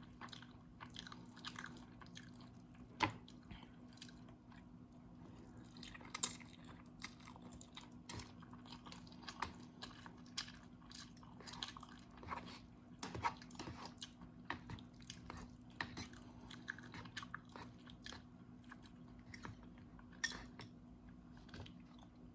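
Close-up chewing and mouth sounds of someone eating instant noodles: a steady run of irregular wet smacks and small crunches.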